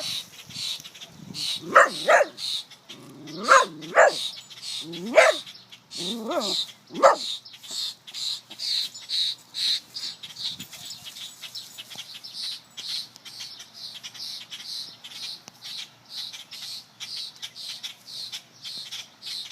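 A dog barking and yipping in short high calls about six times in the first seven seconds, while a small bird chirps over and over in quick high peeps, about two or three a second, all the way through.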